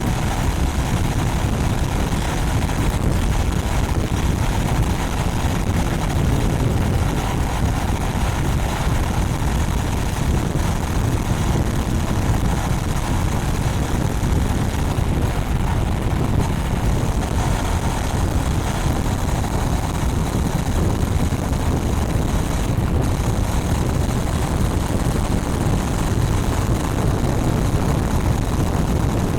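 Honda Rebel 500's parallel-twin engine through its stock exhaust, ridden at a steady speed, mixed with heavy wind noise on the microphone.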